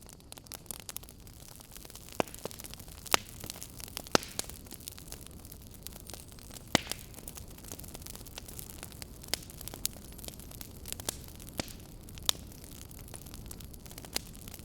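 Wood fire burning in a fireplace: a steady low rush of flame under irregular crackles and sharp pops, several louder snaps spread through.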